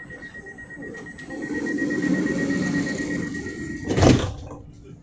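Commuter train running, heard from inside the carriage: a steady high whine over running noise that swells for a couple of seconds. A single sharp bang comes about four seconds in, after which the whine stops.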